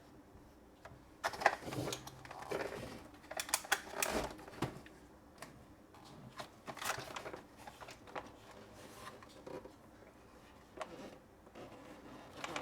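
Hands handling a plastic toy truck carry case: irregular plastic clicks, knocks and rattles, busiest in the first few seconds and then sparser.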